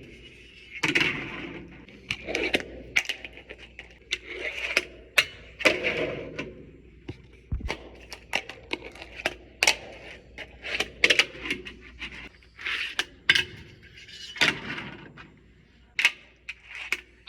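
Fingerboard with a Blackriver deck on LEEFAI trucks and wheels: many sharp clacks of the board popping and landing, between stretches of the small wheels rolling over the surface.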